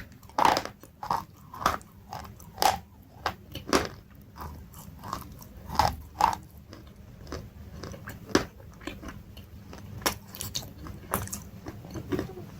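Close-miked crunchy chewing: a rapid series of sharp crunches from bites of crisp food, coming thicker in the first half and thinning out toward the end.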